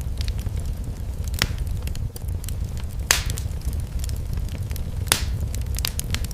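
Wood fire burning in a fireplace, a steady low rumble with scattered crackles and three sharper pops, the loudest about three seconds in.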